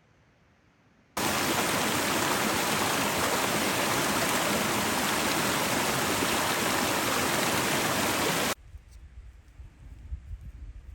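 Waterfall rushing, a loud steady wash of falling water that cuts in suddenly about a second in and cuts off just as suddenly near the end. Fainter low knocks follow.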